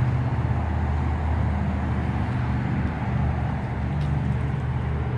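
Steady low hum of a running motor-vehicle engine, with an even wash of outdoor noise behind it.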